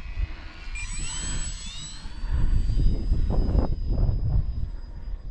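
Electric motor and propeller of an E-flite Valiant RC plane whining in flight. The pitch rises about a second in, then holds steady. Low wind rumble on the microphone is loudest in the second half.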